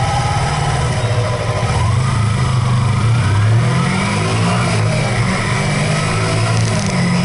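A vehicle's engine running under way; its pitch rises as it accelerates about two seconds in, then holds steady.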